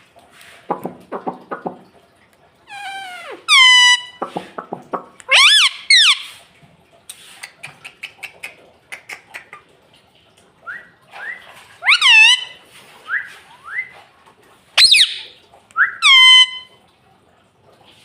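Rose-ringed (ring-necked) parakeet calling. About six loud, shrill calls, each dropping sharply in pitch, come between bursts of rapid chattering.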